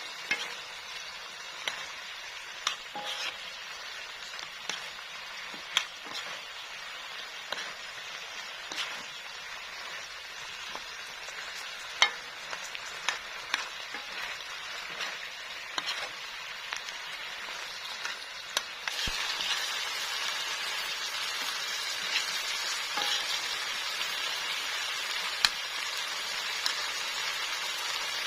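Chicken feet and heads cooking in a pan with sweet soy sauce and chillies, sizzling steadily. A utensil stirring the pan knocks against it every second or two. The sizzling hiss grows louder about two-thirds of the way through.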